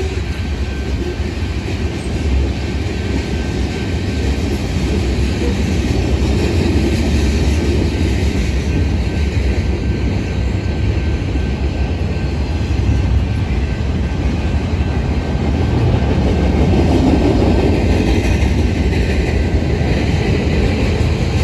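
Freight cars of a manifest train rolling past: a steady, continuous rumble of steel wheels on the rails, swelling a little near the end.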